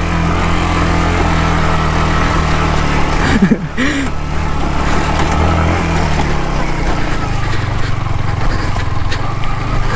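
Yamaha MT-15's single-cylinder engine running steadily at low revs. There is a short voice sound about three and a half seconds in, and the engine note changes after about six seconds.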